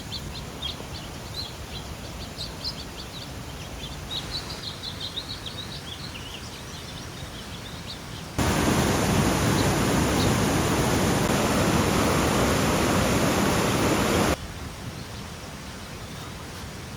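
Forest ambience with small birds chirping. About eight seconds in, a loud, steady rush of water starts suddenly, runs for about six seconds and cuts off just as abruptly, leaving the quieter ambience again.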